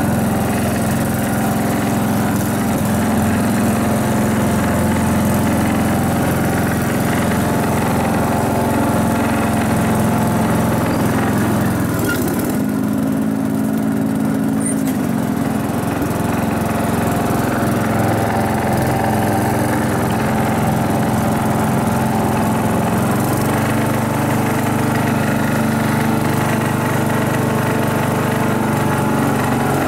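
Riding lawn mower's small engine running steadily. Its note shifts about 12 seconds in and again near 23 seconds, typical of the surging the owner noticed in this mower.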